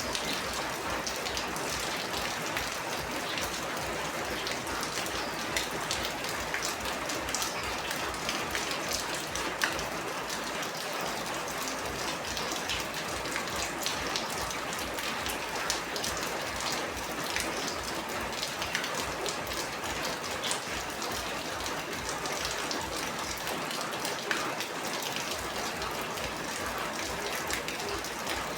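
Steady heavy rain falling, a dense patter with many distinct drops ticking sharply on a surface.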